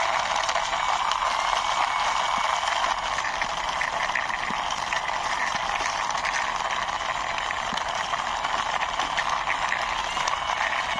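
Plastic toy sports car rolled by hand along a ledge, its small wheels giving faint scattered rattles and clicks over a steady hiss.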